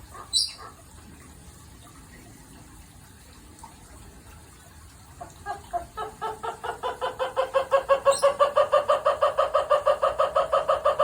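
A bird calling loudly in a rapid series of repeated notes, about five or six a second, starting about five seconds in and building in loudness, after a single short high chirp near the start.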